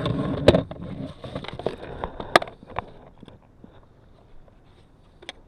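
Handling noise on a fishing kayak: rustling and clattering with a few sharp knocks against the hull, the loudest about two and a half seconds in, then it settles to faint ticks.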